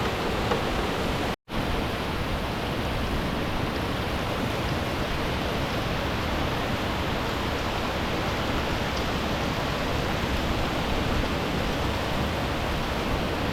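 Steady rush of flowing river water, with a brief dropout about a second and a half in.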